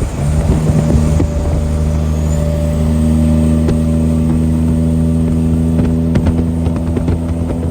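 A loud, steady vehicle sound made of several held tones that neither rise nor fall. It starts just after the beginning and stops shortly after the end, with scattered clicks over it.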